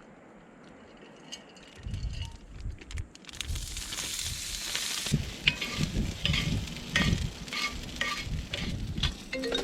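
Food frying in a hot skillet, with a loud sizzle starting about three seconds in as it hits the pan. Scattered clinks and knocks of utensils on the pan run through it.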